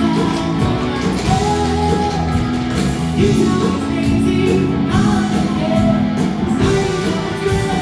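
Live band playing an upbeat rock-and-roll number with guitar and singing.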